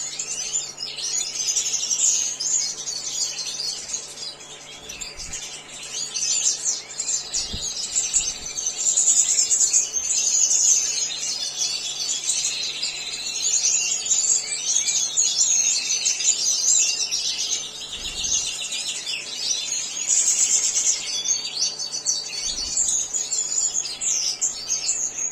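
European goldfinches of the large 'major' subspecies twittering and singing in a continuous chatter, over a faint steady low hum.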